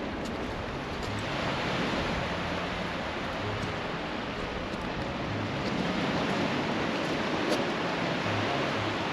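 Sea waves washing onto the shore: a steady rush that swells about a second in and again around six seconds in.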